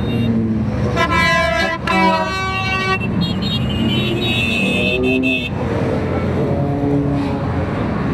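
Vehicle horns honking in several long, overlapping blasts over the steady rumble of a column of motorcycles riding past.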